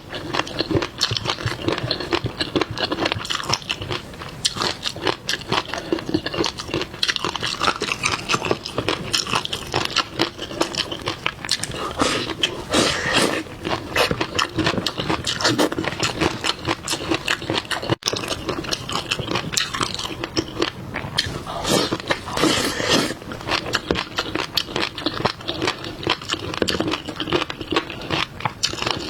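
Seafood being chewed and crunched close to the microphone, with many small irregular clicks and scrapes.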